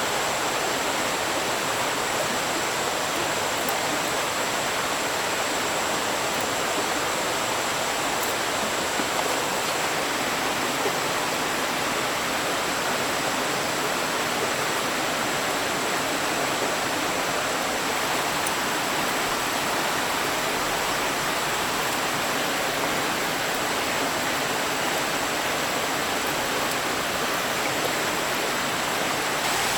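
Steady rush of flowing stream water, even and unbroken, with a thin steady high tone above it.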